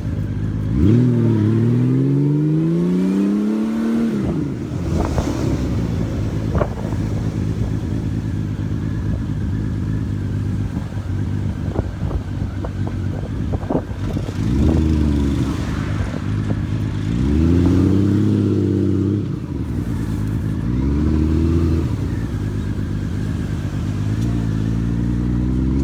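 Honda Valkyrie motorcycle's flat-six engine pulling away, its pitch rising for a few seconds, then running low and steady. In the second half it speeds up and eases off several times, each rise a few seconds long.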